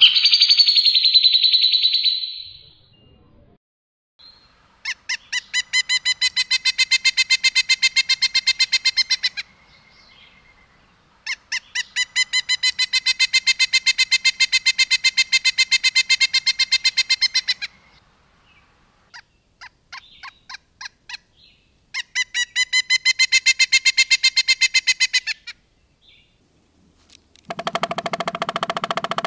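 Recorded songbird calls of the kind used to train pet birds: a short high warbling call, then three long trills of rapidly repeated notes, each lasting several seconds, separated by pauses and a few scattered notes. Near the end there is a lower, harsher buzzing call.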